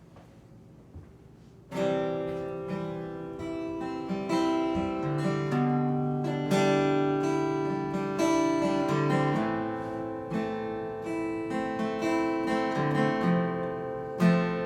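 Acoustic guitar strummed, starting about two seconds in and playing the chords of a song's opening.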